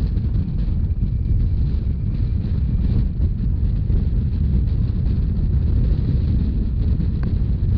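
Wind buffeting the microphone on a moving narrow-gauge train, over the steady low rumble of the train running along the track.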